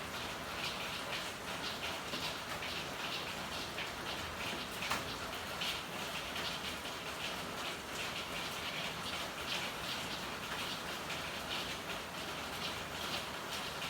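Steady rain falling, with frequent irregular splashes of drops and one sharper tick about five seconds in.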